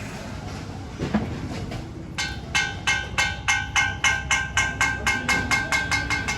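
A rapid run of short, pitched electronic beeps, about four a second and quickening slightly, over a steady low rumble, with a single knock about a second in.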